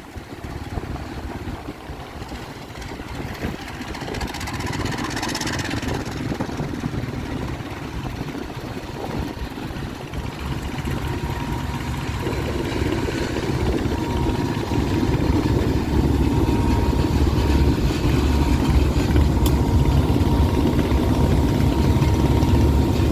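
Train rumble growing steadily louder, deepening and strongest near the end, with a faint steady whine coming in about halfway.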